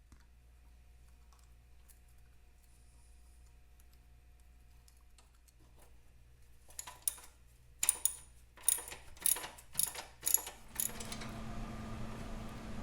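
Quiet room tone, then about halfway through a run of sharp metallic clicks and clatters, like tools and fasteners being handled. Near the end a steady hum starts.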